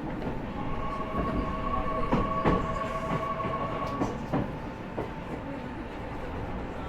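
Running noise inside an E501-series EMU motor car with a Toshiba IGBT inverter: low rumble and rail-joint clicks, with a steady whine of several notes from about half a second in to about four seconds in.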